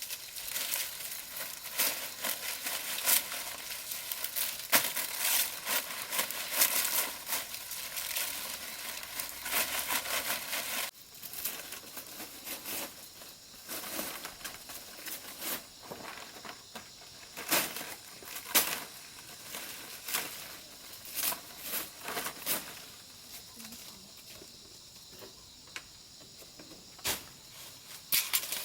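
Dry plant material being handled, with crinkling, rustling and sharp crackles and snaps. The crackling is dense at first, breaks off abruptly about eleven seconds in, and then continues as sparser single snaps and clicks.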